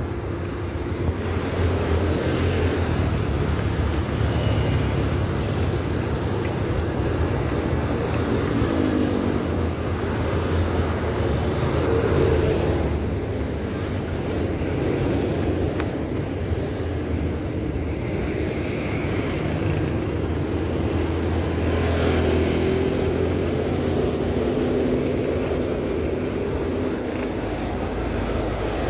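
Steady wind rush and rumble on the microphone of a camera carried on a moving bicycle, with motor-vehicle traffic running along the road.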